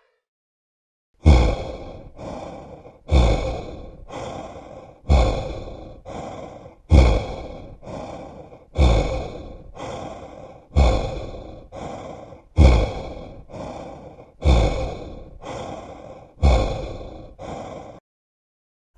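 Heavy, panting breathing sound effect: a person drawing nine deep breaths in and out, about one every two seconds. Each cycle is a loud, long breath followed by a shorter, softer one.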